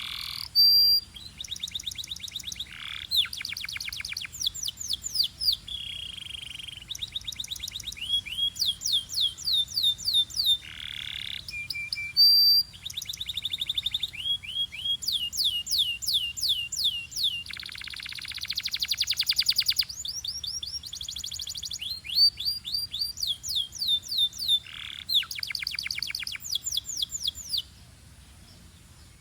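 Belgian canary singing a long song of fast trills: runs of rapidly repeated rising notes that change pace and pitch every second or two, with a few harsher buzzing passages. The song breaks off briefly near the end.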